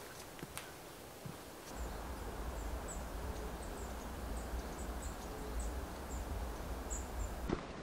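Small birds chirping in woodland: short, high, thin calls about twice a second, over a steady low rumble. A few light clicks come in the first second and a half.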